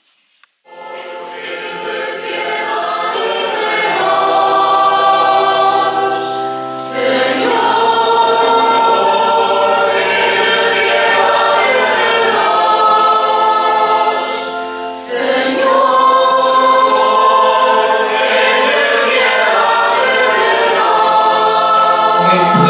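Church choir singing a hymn in held, slow-moving phrases; the singing begins about half a second in.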